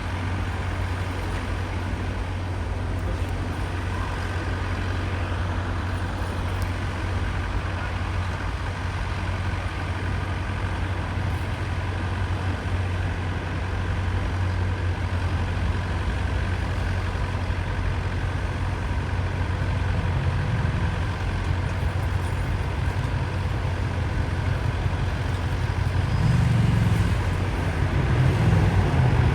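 Steady low engine rumble, swelling somewhat louder in the last few seconds.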